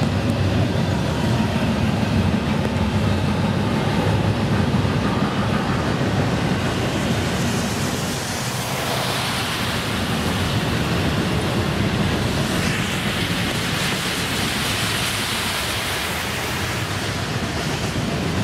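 Double-stack intermodal freight train rolling past, a steady low rumble of wheels on rail that eases slightly after about seven seconds. A hiss of tyres on wet pavement from passing road traffic rises about eight seconds in, and again from about thirteen to sixteen seconds.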